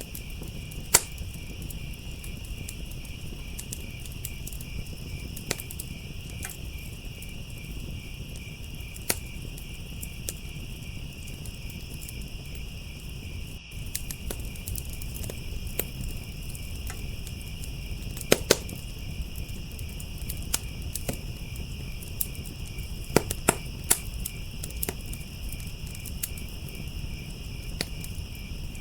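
Crickets chirping in a steady, fast pulsing trill over a wood fire crackling and popping, with a few sharp pops standing out above the rest.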